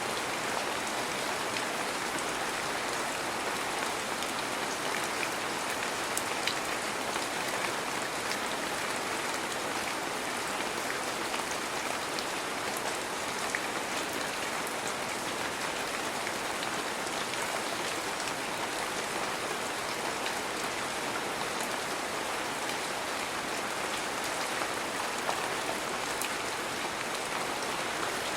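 Heavy rain falling steadily, an even hiss with scattered small drop ticks.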